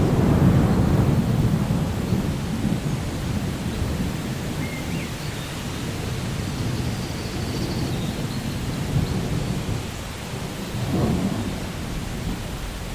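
Steady rain falling, with thunder rumbling low underneath; the rumble is heaviest in the first couple of seconds and swells again briefly near the end.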